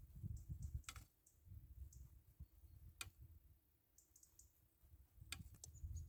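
A few sharp clicks, one about a second in, one near the middle and two close together near the end, over a faint, uneven low rumble.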